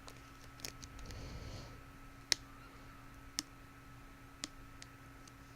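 Tines of a plastic hair pick flicked one at a time, giving a few sharp, separate plastic clicks at uneven intervals.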